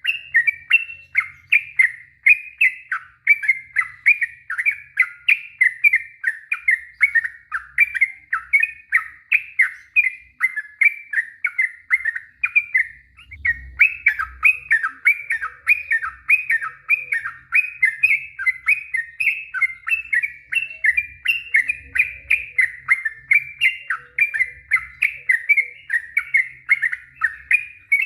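Yellow-vented bulbul (trucuk) singing a long run of rapid, chattering whistled notes, about three a second, broken once by a short pause about halfway through.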